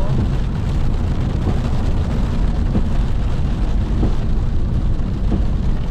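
Pontiac Firebird driving on a wet road: a steady low drone of engine and tyre noise, with an even hiss over it.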